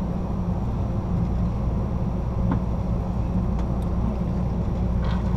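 Steady low rumble of an Amtrak Superliner passenger car rolling along the rails, heard from inside the rear of the train, with a faint tick about halfway through.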